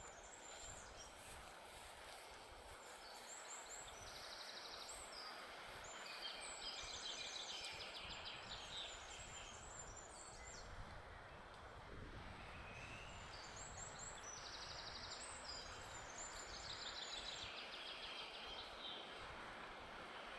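Small forest songbirds singing: two long bouts of high, rapid, trilling song, about ten seconds apart and much alike, over a soft, steady breeze.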